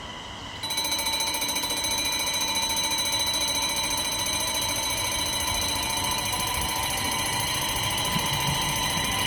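An electronic warning alarm switches on abruptly under a second in and keeps ringing steadily: a shrill, rapidly pulsing tone at a railway line.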